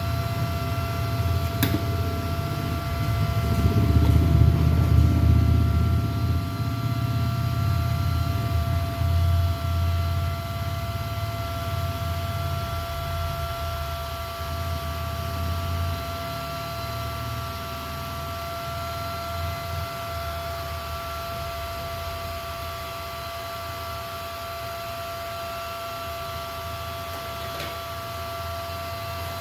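Steady electrical whine of a few held high tones over a low rumble; the rumble is loudest in the first ten seconds and then dies down.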